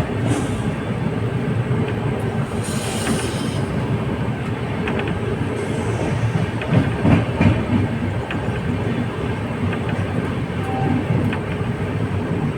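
Passenger express train running along the track: a steady rumble with wheels clacking over rail joints, a short hiss about three seconds in, and a few heavier knocks around seven seconds.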